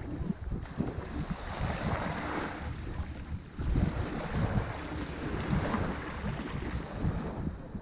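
Ocean waves breaking and washing up a shore, swelling twice into a louder rush of surf, over a steady low rumble of wind on the microphone.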